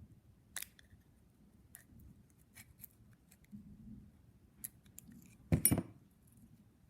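Small hard parts of a brush cutter carburetor clicking and tapping as they are handled, with light scattered clicks and a louder clatter about five and a half seconds in.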